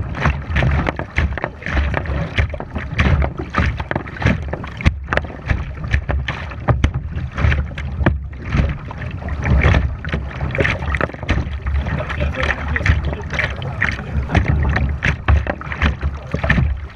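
Kayak paddling: irregular splashes and water noise from paddle strokes, over a steady low rumble of wind on the action-camera microphone.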